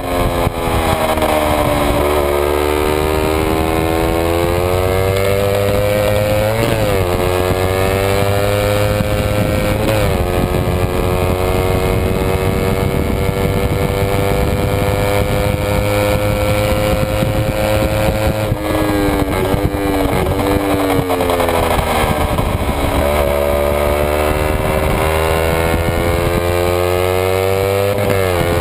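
Kawasaki Ninja 250 parallel-twin racing engine at high revs, heard from on board. The pitch climbs hard through the gears, with quick drops at each upshift about seven and ten seconds in. It is held steady near the top, then falls away as the bike slows and climbs again near the end.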